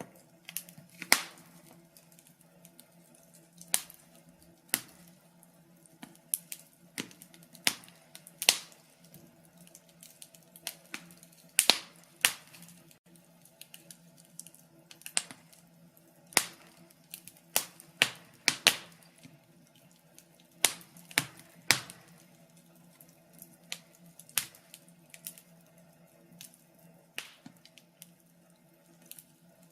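Wood fire crackling in a fireplace: irregular sharp pops and snaps, sometimes in quick clusters and sometimes a second or two apart.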